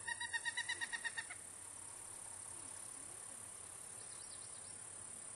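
Pileated woodpecker calling: a rapid run of about a dozen evenly spaced notes, lasting just over a second, that then stops.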